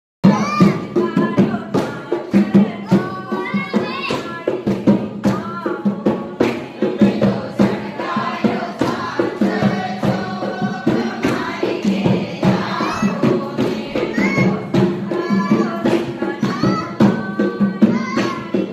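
A group singing a Gujarati garba devotional song together over a steady percussive beat.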